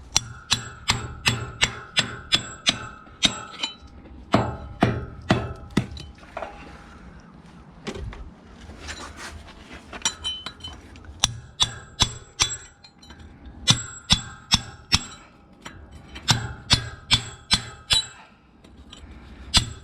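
Runs of hammer blows on a steel bolster chisel, each strike giving a sharp ringing clink, about two to three a second, with a quieter pause about halfway. The blows are chopping down a high spot in the concrete base.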